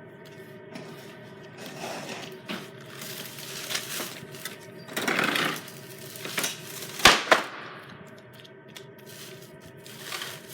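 A steady engine hum with scattered knocks and scrapes, and one loud, sharp bang about seven seconds in.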